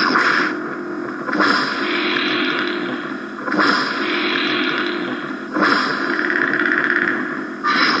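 Custom lightsaber's Crystal Focus 6.1 soundboard playing the Predator sound font through the hilt speaker: a steady buzzing hum with a new swing or clash effect surging in every couple of seconds, about four times.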